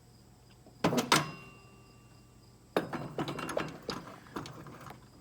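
Two sharp metal knocks about a second in, leaving a brief ring, then a couple of seconds of irregular metal clicking and rattling as snowblower axle and wheel parts are handled.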